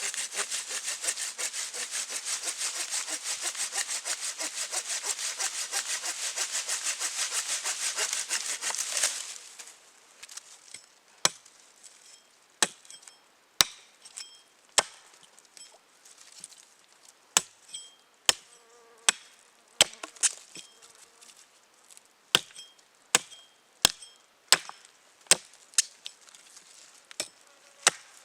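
Wood being cut with a hand saw in rapid back-and-forth strokes that stop about nine seconds in, then a series of sharp wooden knocks about a second apart as wood is chopped.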